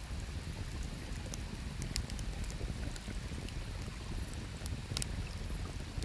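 Wood campfire crackling: scattered small sharp pops, the loudest about two seconds and five seconds in, over a steady low rumble.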